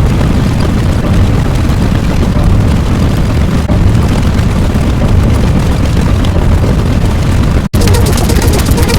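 Loud, continuous low rumbling noise, like an explosion or eruption sound effect. It cuts out for an instant near the end, and a different, rougher sound with a steady hum follows.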